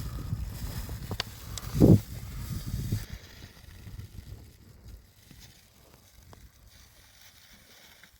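Handling noise: rustling and scattered knocks over the first three seconds, with one loud thump about two seconds in, then faint rustling.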